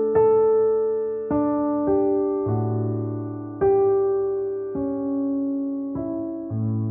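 Slow, soft piano music: single notes and chords struck every second or so, each ringing and fading away.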